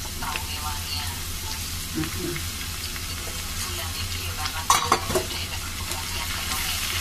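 Grated white radish sizzling as it fries in a wok, being stirred with a plastic spatula. About five seconds in, three sharp knocks of the spatula against the pan.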